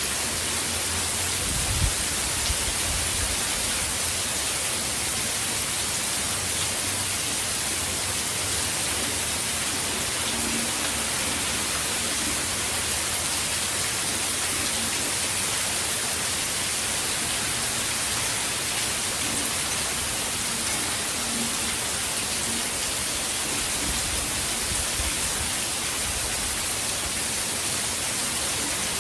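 Steady heavy rain from a hurricane, a dense even hiss, with low rumbles about two seconds in and again near the end.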